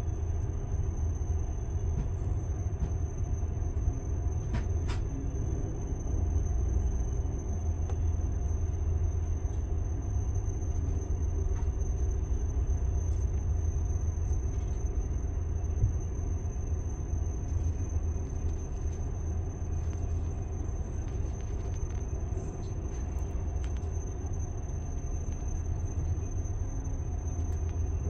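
Steady low rumble inside an Amtrak passenger car as the train rolls slowly into the station. A thin, steady high whine runs over it, with a few light clicks.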